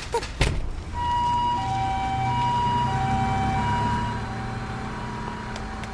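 Emergency vehicle's two-tone siren alternating between a higher and a lower note over a low engine hum. It starts about a second in and fades somewhat after about four seconds, with a sharp click just before it.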